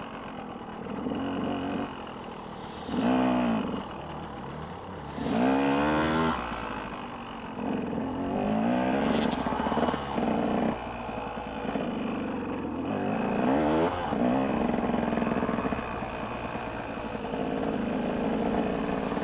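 Motocross dirt bikes racing, engines revving up and down as they go through the gears, with the loudest passes about three and about five seconds in.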